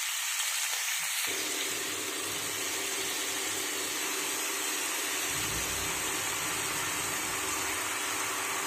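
Boiled oyster mushrooms sizzling steadily in hot oil in a frying pan, the sizzle coming from the water the mushrooms give off as it cooks away.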